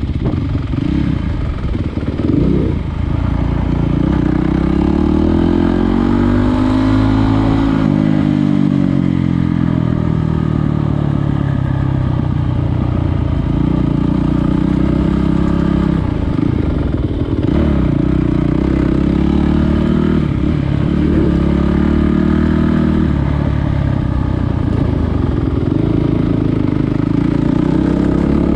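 Trail motorcycle engine running under way, its revs rising and falling over and over as the throttle is opened and closed.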